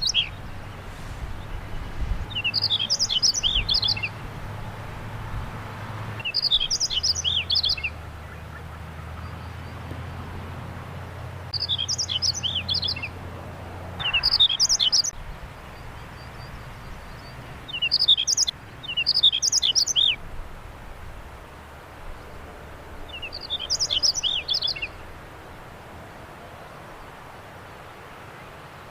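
Chinese rubythroat singing: short, rapid phrases of high, jumbled warbling notes, each a second or two long, repeated every few seconds. A faint low hum lies underneath.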